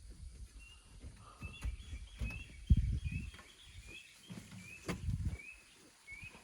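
A bird calling over and over, short rising high chirps about two a second, over dull low thumps and rumbles, the loudest a sudden thump a little under halfway in, and a sharp click a little later.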